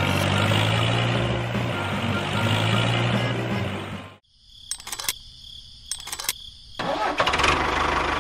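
Engine sound of a model tractor running, a low, wavering hum. About four seconds in it cuts out to a quiet high whine with a few sharp clicks, and it comes back loud near the end.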